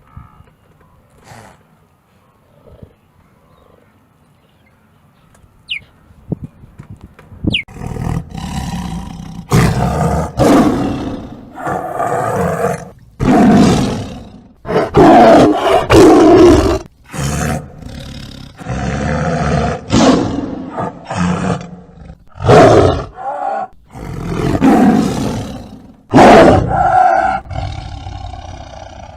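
A large animal calling loudly over and over in rough, roughly one-second roars, starting about a quarter of the way in after a faint stretch.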